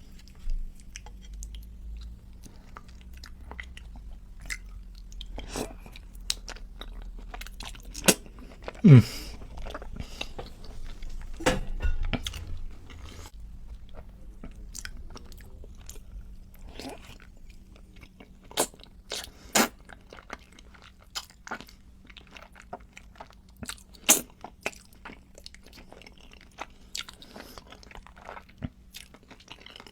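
A person eating creamy Alfredo pasta with butter chicken close to the microphone: chewing and biting with scattered crunches and sharp wet mouth clicks.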